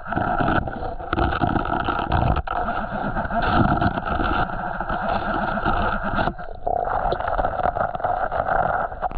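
Water sloshing and splashing while someone wades through a creek, over a steady buzzing hiss that briefly drops out about six seconds in.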